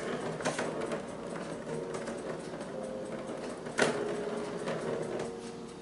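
A ball rolling and rattling around a plastic track toy as a cat bats it, with a sharp click a little under four seconds in.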